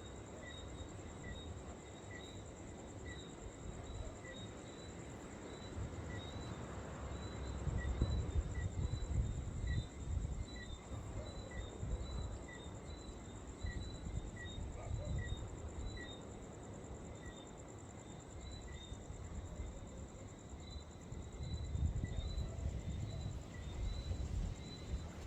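Insects trilling steadily on a high pitch, with a small high chirp repeating about once a second, while gusts of wind rumble on the microphone, strongest about a third of the way in and near the end.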